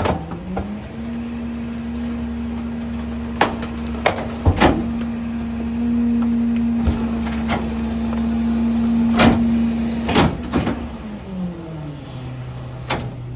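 Garbage truck engine held at raised revs while the compactor runs, with sharp metal clanks and knocks over it. Near the end the engine drops back to a lower idle.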